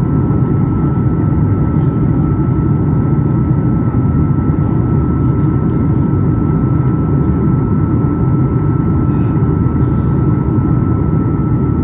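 Cabin noise of a Boeing 737 MAX 8 with its CFM LEAP-1B engines running: a loud, steady low roar with a constant high whine tone over it.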